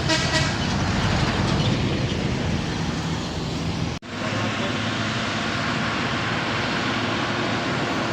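Truck diesel engines running steadily on a steep climb, with a short horn-like tone at the very start. The sound cuts off abruptly about halfway through, then a similar steady engine sound carries on.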